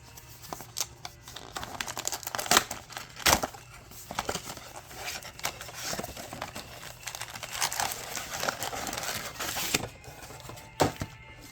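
Foil trading-card pack wrappers crinkling and tearing as packs are ripped open and handled, in irregular sharp crackles.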